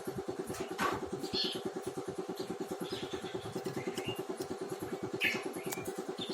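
A small engine running steadily with a rapid, even pulsing, while a bird gives short, high chirps over it several times.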